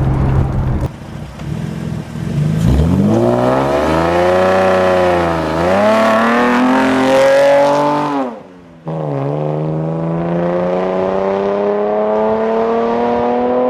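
2015 Chevrolet Camaro's V6 with its muffler deleted, accelerating hard. About two and a half seconds in the engine pitch climbs steeply and wavers up to a peak. It cuts off sharply just after eight seconds, as at a gear change, then comes back and rises steadily through the next gear.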